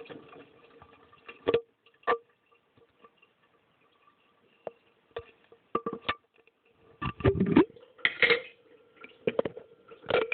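Inside a running dishwasher, heard from within a sealed glass jar: a faint steady hum with irregular sharp knocks and splashes of water against the jar, thickest near the end. The upper spray arm is not turning.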